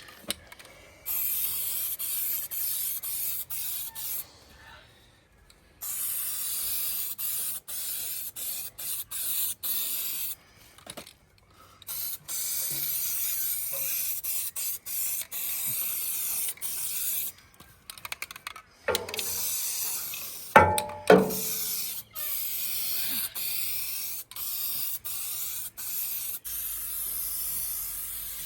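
Paint being sprayed in repeated hissing bursts that stop and start every second or two. Around two-thirds of the way through, a short louder clatter or squeak.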